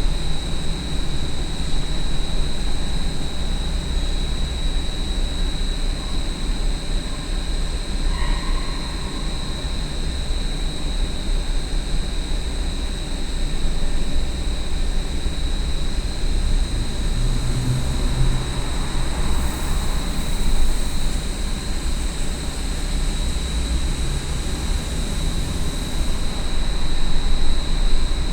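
Large industrial exhaust fan running steadily: a loud low rumble with a constant high-pitched whine over it.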